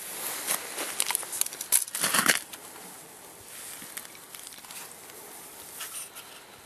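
Footsteps crunching on snow over ice: a quick run of crunches in the first two and a half seconds, then fainter and sparser.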